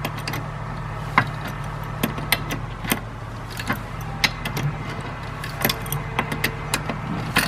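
Wrenches clicking and clinking on a bolt and lock nut as the nut is tightened on a trailer jack handle, in short irregular metal ticks. A steady low hum runs underneath.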